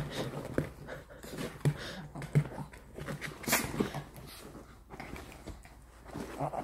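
Small pet dogs (chihuahuas) playing, with panting and scattered short knocks and scuffles.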